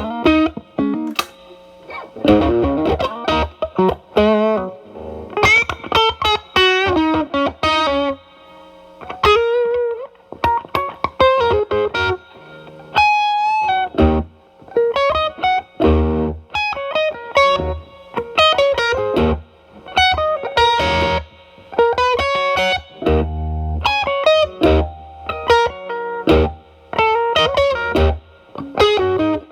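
Electric guitar, a Telecaster through an E.W.S. Brute Drive distortion pedal into a Marshall Valvestate amp's drive channel, with the drive cleaned up to a lightly broken-up tone. It plays quick improvised blues lines of single notes and bends, with short pauses between phrases.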